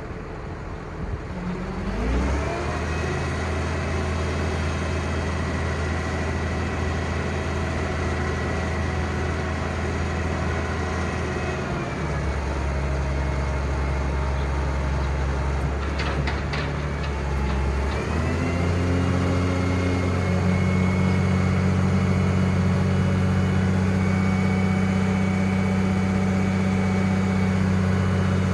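5.9L Cummins six-cylinder turbo diesel running, stepping up in speed about two seconds in, settling back down midway and rising again near the two-thirds point. A high whine rises and falls with the engine speed, and a few sharp clicks come partway through.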